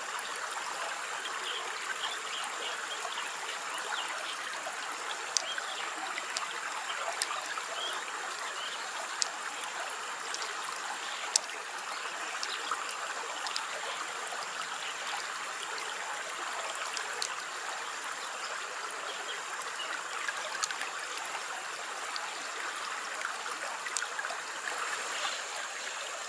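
Steady trickling, burbling water like a small stream, with a few faint sharp ticks scattered through it.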